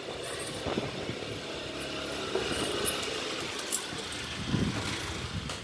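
A motor vehicle engine running, with a sharp click about four seconds in.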